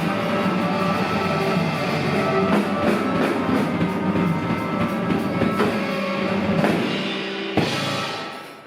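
Live rock band playing, with electric guitar and a drum kit. After a last sharp hit about seven and a half seconds in, the music dies away.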